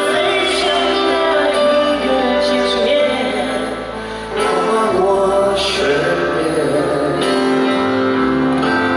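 Live pop concert music: a band playing, with a male voice singing long held notes over it. The loudness dips briefly about four seconds in, then picks up again.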